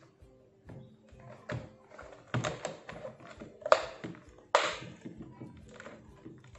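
Plastic parts of a Dyson V6 cordless vacuum being handled and fitted back together: a series of taps and knocks, the two loudest about three and a half and four and a half seconds in, the second trailing off in a short scrape.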